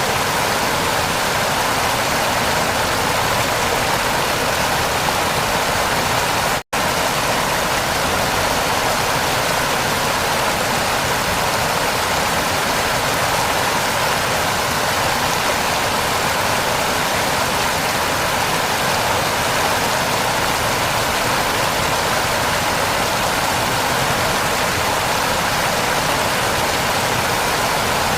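Heavy rain falling as a steady, even hiss, which cuts out completely for an instant about seven seconds in before resuming unchanged.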